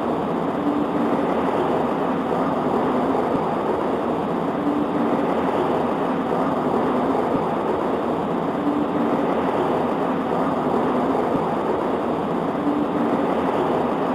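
Heavy rain as a steady, muffled rushing with little hiss, with a faint low hum that recurs about every four seconds.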